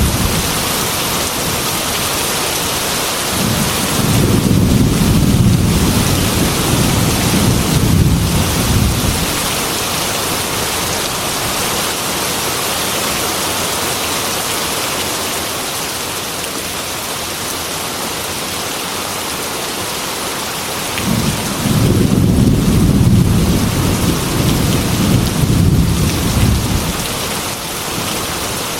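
Heavy rain beating steadily on a glass window, with two long low rolls of thunder, one starting about three seconds in and one about twenty seconds in, each rumbling for five or six seconds.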